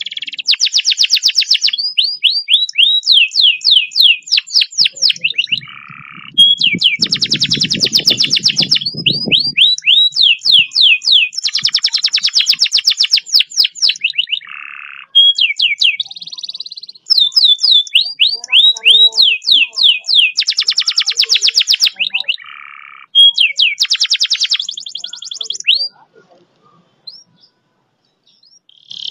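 Canary singing a long, fast rolling song: rapid trills of repeated notes and runs of quick sweeping notes in phrases with short breaks, the 'roll speed' style used as tutor song for training canaries. A brief low rumble sounds about seven seconds in, and the song stops a few seconds before the end.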